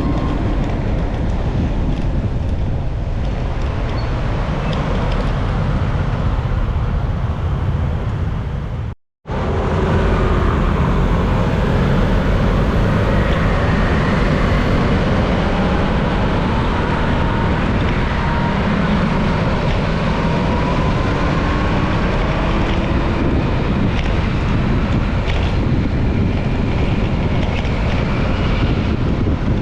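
Wind rumbling on the microphone with road and traffic noise while riding, faint engine tones rising and falling over it. The sound cuts out completely for a moment about nine seconds in.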